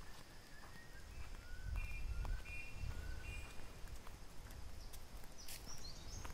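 Birds calling in short whistled notes over a low rumble on the microphone.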